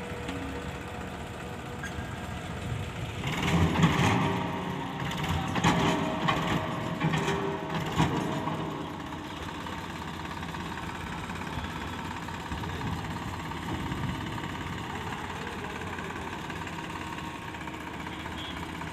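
Sonalika tractor's diesel engine running steadily, growing louder with a run of clattering knocks from about three to nine seconds in before settling back to an even run.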